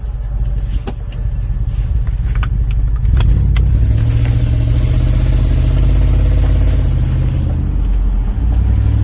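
Toyota Sequoia V8 running with one muffler removed, its exhaust loud as the engine is opened up about three seconds in and held under steady load, then backed off near the end.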